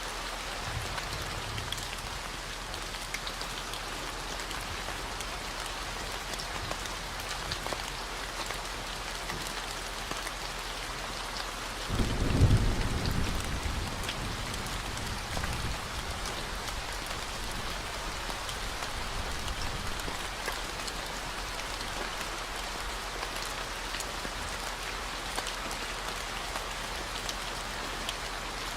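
Steady rain falling, with a low 40 Hz tone held underneath. About twelve seconds in, a low roll of thunder swells and fades away over several seconds.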